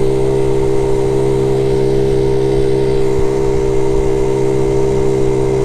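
Single-cylinder four-stroke engine of a 1976 Honda Z50J monkey bike running at a steady, unchanging speed while riding. It runs smoothly with no misfire, its faulty ignition coil having been replaced.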